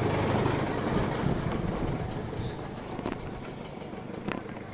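A passing vehicle's engine rumble and road noise, loud at first and fading away.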